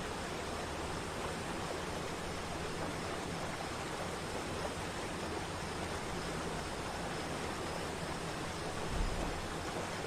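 Waterfall rushing: a steady, even noise of falling water, with a brief low bump near the end.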